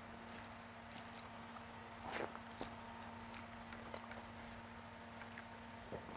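Close-miked chewing of a mouthful of rice, with soft wet mouth clicks and fingers squishing rice on the plate; a louder smack about two seconds in. A faint steady hum underneath.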